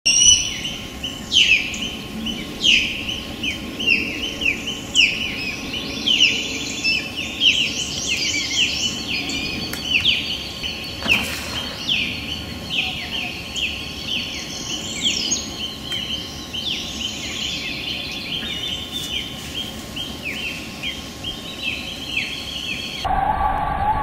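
Small birds chirping over and over: many short, downward-sliding high notes overlapping, with a thin steady high tone beneath them. Near the end the chirping cuts off and a steady low hum takes over.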